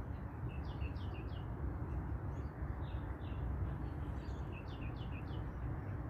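Bird chirping in short, quick falling notes, in runs of three or four, over a steady low rumble.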